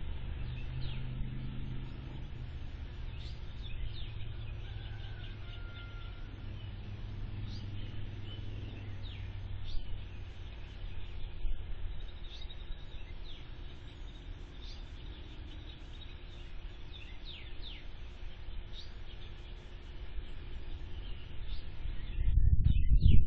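Scattered short bird chirps over a steady low hum. A louder low rumble builds near the end.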